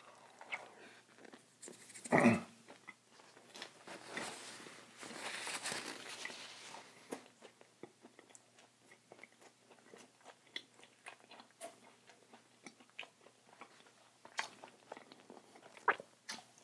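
Close-miked eating: biting and chewing with crunching and small wet mouth clicks, fairly quiet. One short sound about two seconds in is louder than the rest.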